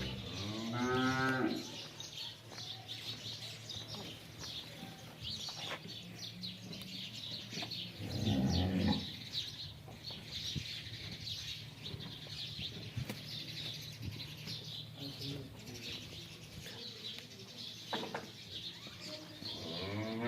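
Water buffalo calling twice: a pitched call about a second in and a lower, rougher one about eight seconds in. Small birds chirp steadily in the background.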